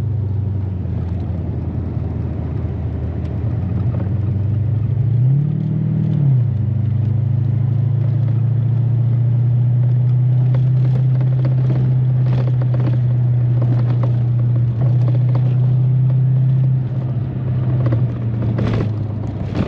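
Corvette V8 engine and road noise heard from inside the cabin while driving. The engine note rises and falls once about five seconds in, then holds steady at cruise, with a few knocks and clatters from the car going over bumps near the end.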